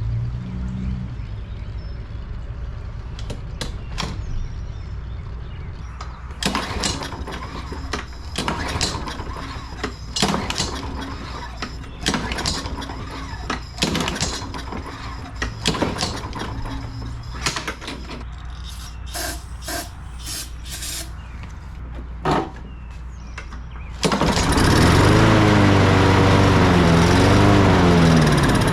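Knocks and clatters of handling a walk-behind lawn mower, then near the end its small engine starts and runs loudly, its pitch rising and falling unevenly as it surges.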